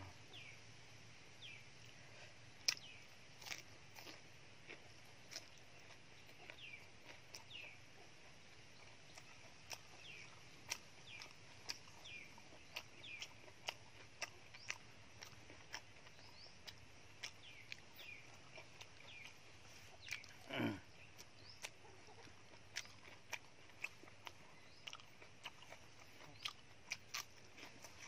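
Close-up eating sounds: quiet chewing of soft food with scattered wet mouth clicks and lip smacks. About two-thirds of the way through comes one brief, louder mouth sound.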